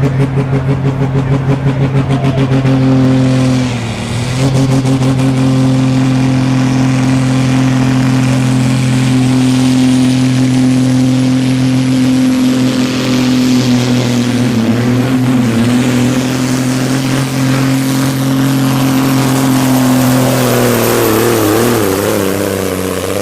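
Super Sport class pulling tractor's diesel engine running flat out under load during a pull, a steady high-revving drone. It throbs for the first couple of seconds, dips briefly about four seconds in, then holds steady while a faint high whine rises slowly above it.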